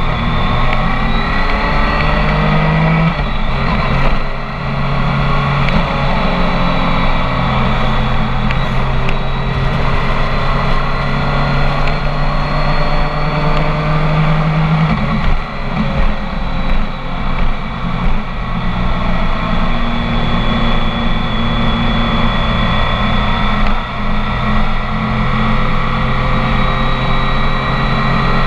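BMW K1300 S inline-four running through a full Akrapovic exhaust while riding. It holds a steady note that steps up about three seconds in and drops back about fifteen seconds in, with a few brief dips in loudness as the throttle eases later on.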